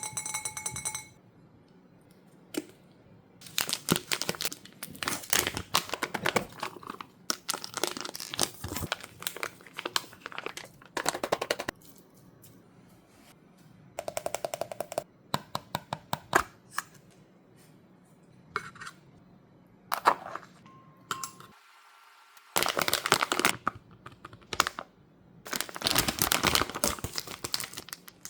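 Plastic food packaging crinkling and tearing in repeated bursts of rustling and clicking as the food is unwrapped and handled. A short chime sounds at the start.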